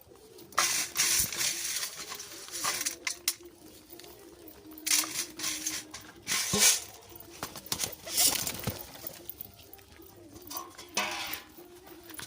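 Pigeons cooing in a low, wavering drone, broken by several short bursts of rustling noise.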